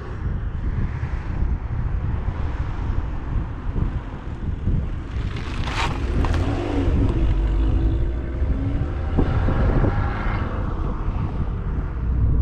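Stage-1-mapped 2011 Abarth 595's 1.4 turbocharged engine and exhaust under way, its note climbing as the car accelerates about halfway through and again near the end. Wind rumbles on the microphone, and a brief sharp noise comes about halfway through.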